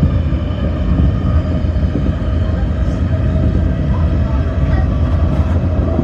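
Electric commuter train running between stations, heard from inside the car: a steady low rumble of wheels on track with a steady whine from the traction motors over it.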